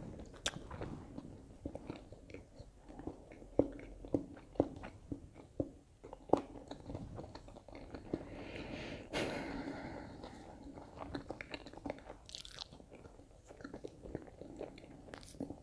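A person chewing a mouthful of crispy breaded Findus Sofficini with the mouth closed: faint, irregular crunches and wet mouth clicks.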